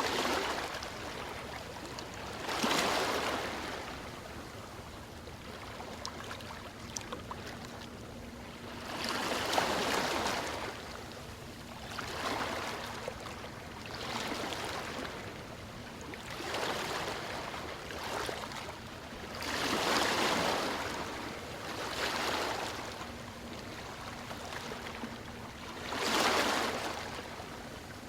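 Ocean surf: waves breaking and washing in, each one a rush of hiss that swells and fades, arriving every few seconds.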